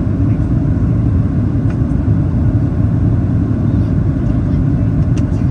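Steady low rumble of engine and airflow noise inside the cabin of a Boeing 737-800 descending on approach, with a faint click near the end.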